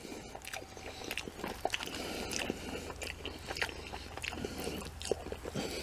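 A person chewing mouthfuls of battered takeout chicken and noodles, with irregular small crunches and clicks.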